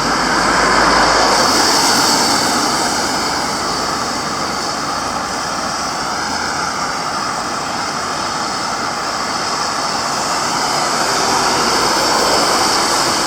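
Road traffic passing: a steady rush of vehicle engines and tyres that swells about a second in and again near the end.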